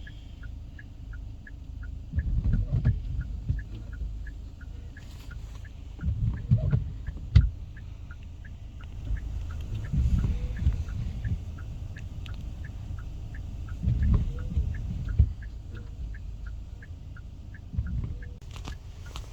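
A steady, rapid ticking, about three ticks a second, with low rumbling surges every few seconds underneath.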